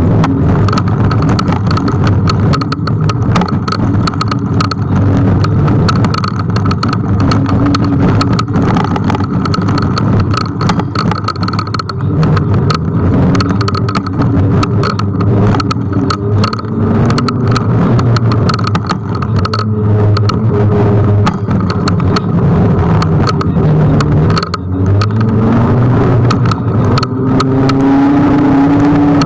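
Ride noise on a Kugoo G1 electric scooter in traffic: rapid knocks and wind buffeting on the microphone over the steady sound of cars on the road. A tone rises near the end.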